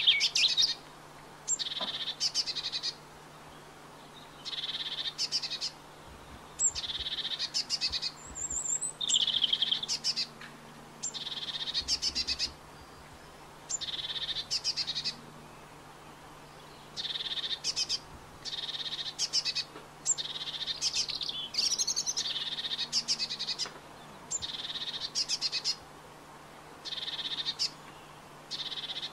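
A songbird singing short, quick trilled phrases, roughly one a second, in runs broken by short pauses.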